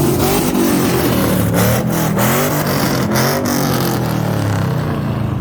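Car engine revved hard at a standstill, its pitch rising and falling several times, with sharp exhaust cracks in the middle, then settling to a steadier drone near the end.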